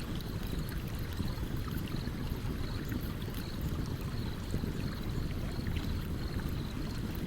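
Steady rush of a stream, with occasional faint crackles from a campfire. A faint high chirp repeats at an even pace, about every three quarters of a second.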